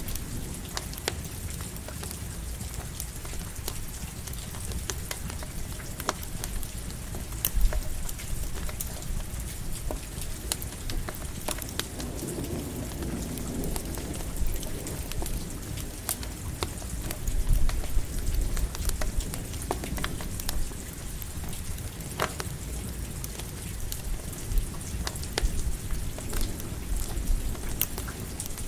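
Steady light rain hiss with the scattered pops and crackles of a campfire, and low rolls of thunder swelling up twice around the middle.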